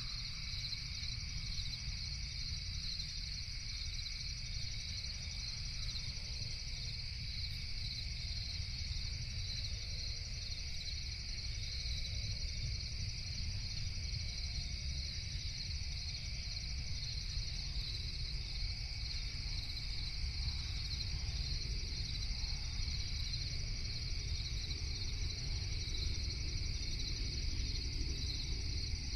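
A dense, steady chorus of crickets chirring at night, over a continuous low rumble.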